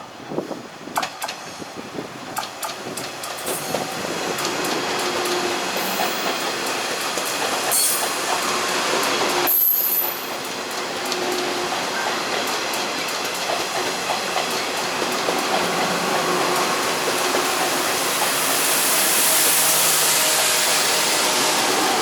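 Taiwan Railways EMU300-series electric multiple unit running in, its wheels clicking over rail joints at first. Then a steady rumble grows louder as the train comes closer.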